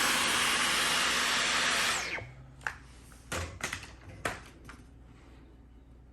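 Dyson V15 cordless stick vacuum running steadily, then switched off about two seconds in, its whine winding down. A few light clicks and knocks follow.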